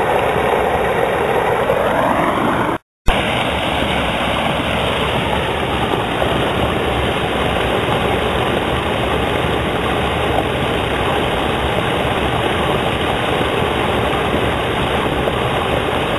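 Water pouring over a small waterfall in a concrete storm drain, a steady rushing noise. It cuts out completely for a moment about three seconds in, then carries on unchanged.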